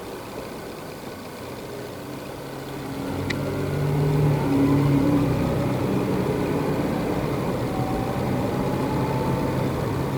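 An engine running at low speed. It grows louder about three seconds in, then holds steady.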